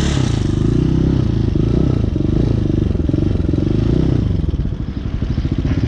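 Hawk 250 dual-sport motorcycle's single-cylinder four-stroke engine running under way, its pitch rising and falling with the throttle. It eases off briefly about four and a half seconds in, then pulls again.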